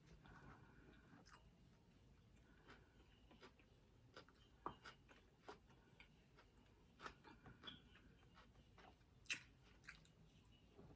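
Faint close-up chewing and mouth sounds of someone eating, with scattered small clicks and crackles and a few louder ones.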